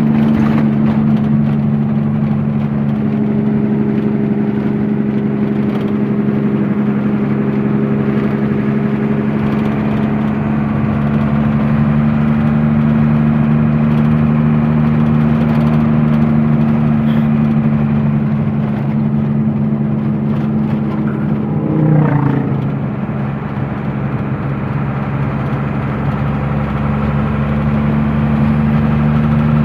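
Truck engine running steadily under way, a loud even drone, with a brief louder swell about twenty-two seconds in.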